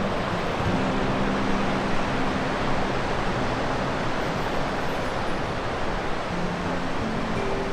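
Steady rushing noise with faint held low notes of background music about a second in and again near the end.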